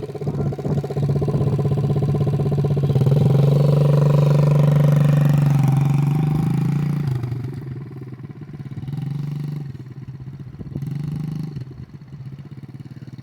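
A 50cc youth dirt bike's small single-cylinder engine running under steady throttle for several seconds, its pitch rising a little in the middle. About seven seconds in the throttle comes off and the engine runs quieter, with a few short blips of gas.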